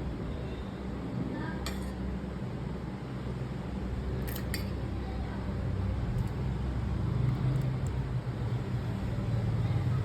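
Steady low hum of a vehicle running on the road, growing a little louder in the second half, with a few sharp clicks and clinks about two and four and a half seconds in.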